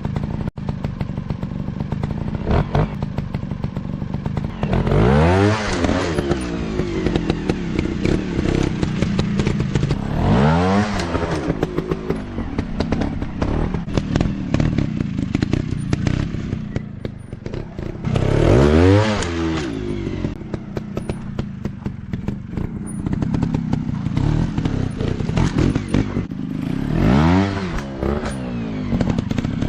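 Motorcycle engine running loudly, revving up and falling back four times, with some clatter and thudding along with it.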